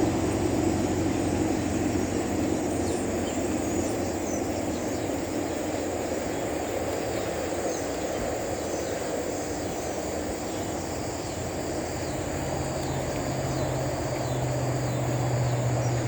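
Steady outdoor rumble of traffic, with a low engine drone setting in about twelve seconds in, and faint scattered calls from a large flock of small birds overhead.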